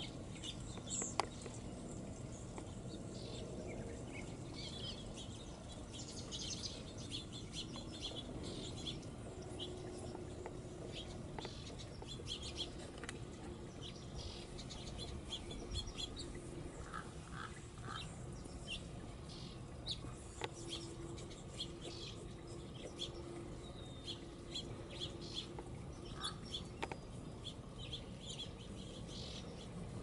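Small birds chirping, many short high calls scattered throughout, over a low background rumble, with a faint steady low hum through the middle stretch.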